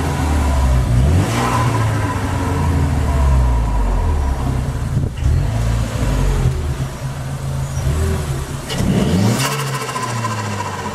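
Renault Megane 225's turbocharged four-cylinder engine revved several times, its pitch climbing and falling through the exhaust. About nine seconds in, a sharp rev rise is followed by a fast, rattling turbo flutter.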